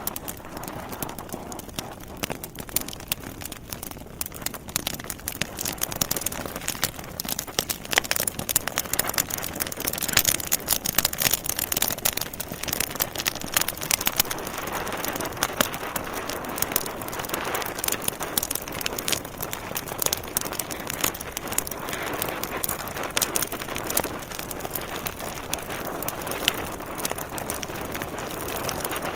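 Logs burning in a fireplace, crackling steadily with many small sharp pops over a soft rushing of the flames.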